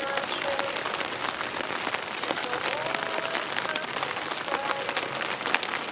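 Steady rain falling, with many separate drops striking a nearby surface, heard as dense crackling ticks over an even hiss.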